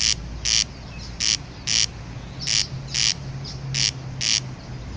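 Nest-building birds at their colony giving short, harsh chirps, roughly one to two a second at uneven spacing, over a faint low hum.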